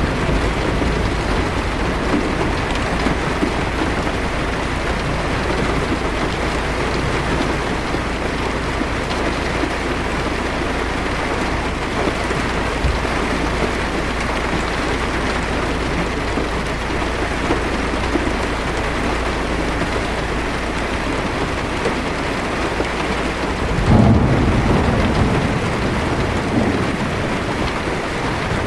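Heavy rain pattering on a car's roof and windshield, heard from inside the car as a steady dense hiss over a low rumble. Near the end a roll of thunder swells up and fades over a few seconds.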